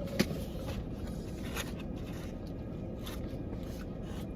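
Takeout food being handled and eaten: a sharp click about a quarter second in, then faint scrapes and ticks, over a steady low rumble.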